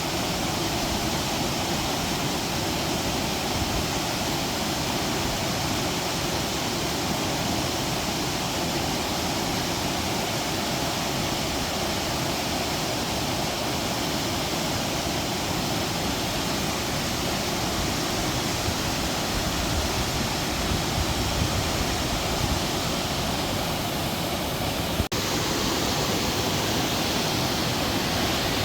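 Kagumo waterfall: water falling into its pool, a steady, full rushing noise. About three seconds before the end it drops out for an instant and comes back slightly brighter.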